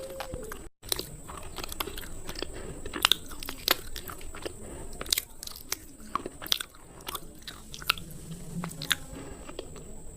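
Slate pencils being bitten and chewed close to the microphone: an irregular run of sharp, brittle cracks and crunches, over a faint steady high whine.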